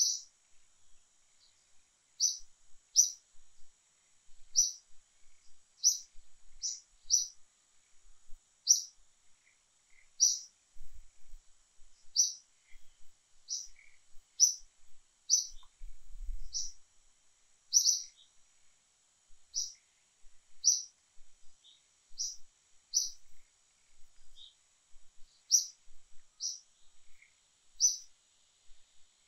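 A bird chirping over and over: short, sharp, high chirps at an irregular pace of about one or two a second, over a faint steady high whine.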